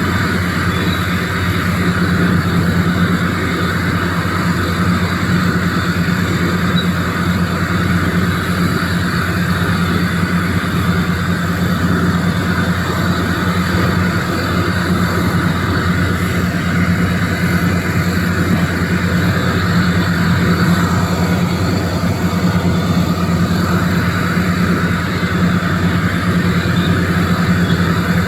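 Doosan DX390 excavator's diesel engine running steadily, a constant low hum with no clear rock impacts.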